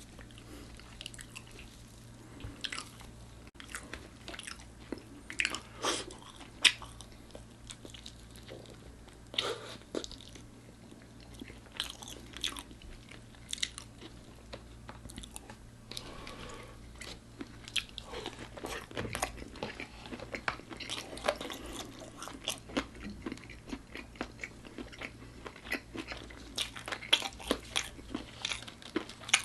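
Close-miked eating of crispy food: sharp crunching bites and wet chewing, irregular and coming thicker in the second half.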